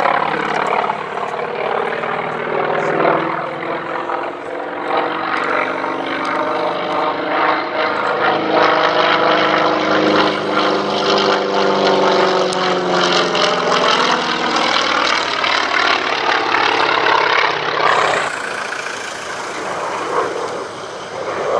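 Propeller-driven aircraft flying past, its engine note sweeping slowly as it passes. The sound changes abruptly near the end.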